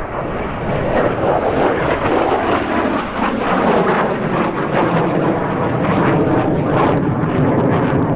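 Jet noise from a Lim-5 (Polish-built MiG-17F) and its Klimov VK-1F turbojet flying its display: a loud, steady rush that swells in the first second and then holds, with sharp crackles through it.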